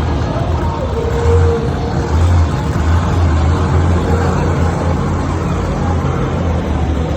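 Monster truck engine running loud, a deep rumble that surges and eases as the truck is driven.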